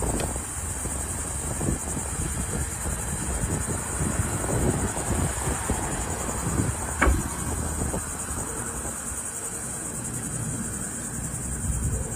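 Outdoor ambience: insects chirping in a steady high-pitched drone over an uneven low rumble, with one sharp click about seven seconds in.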